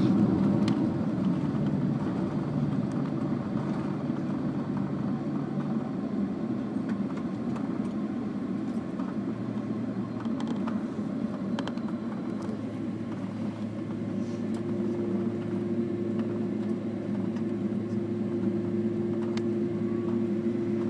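Airliner cabin noise while taxiing after landing: a steady rumble of the jet engines and ventilation with a low hum. A higher steady tone joins about fourteen seconds in, and the sound grows a little louder.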